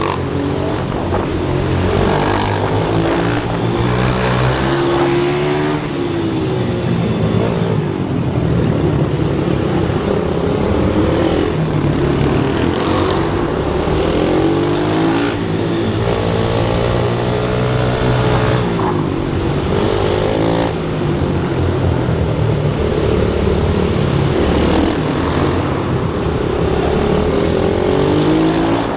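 Pit bike engines running on a track, the pitch climbing and dropping again every couple of seconds as the bikes accelerate, shift and brake, with more than one engine heard at times.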